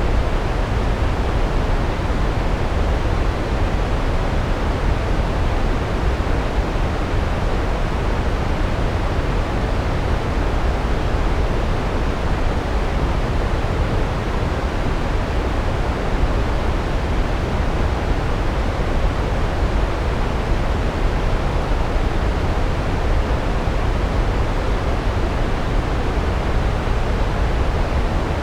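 Large waterfall: a steady, unbroken rush of falling water, deep and even, with no changes.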